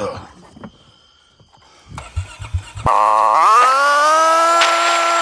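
A vehicle engine starting: a few short cranking pulses about two seconds in, then the engine catches about a second later and runs with a loud, even tone that rises in pitch and holds steady.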